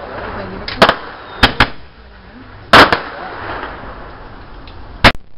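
Fireworks going off: a run of about six sharp bangs, two close pairs in the first two seconds, the loudest nearly three seconds in and a last one near the end, with crackling between.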